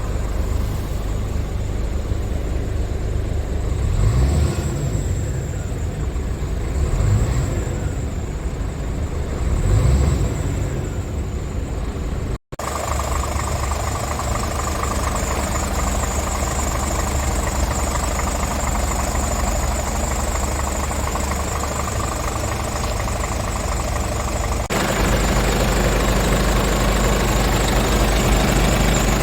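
Scania R450 tractor unit's 13-litre inline-six diesel idling, revved briefly three times in the first half. After a cut it idles steadily and gets a little louder near the end.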